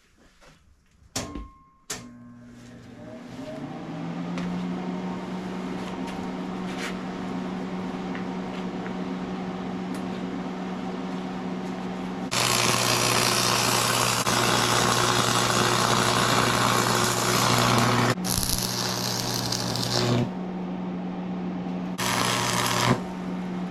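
Welding machine humming steadily, then long stretches of harsh crackling welding arc as the stacked steel pieces are tacked together into a billet, with short breaks between welds.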